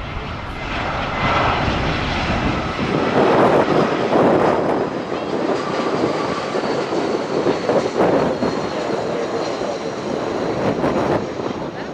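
Jet airliner engine noise: a loud, steady rush that swells about three seconds in and holds.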